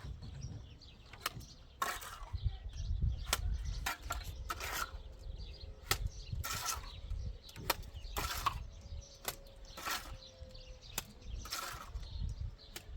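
Hand tools working wet cement: repeated scraping and knocking strokes, about one a second, over a low rumble.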